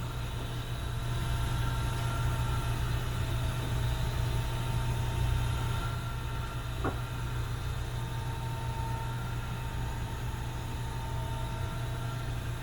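A steady low mechanical hum with faint steady whine tones above it, and a single light click about seven seconds in.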